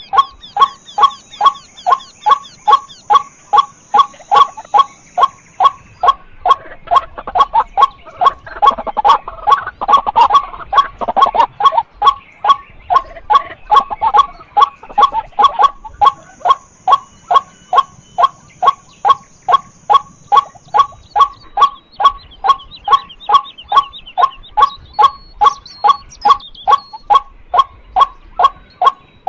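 White-breasted waterhen calling a long, even series of short 'kwak' notes, about two a second. Faint high chirps from other birds come in near the end.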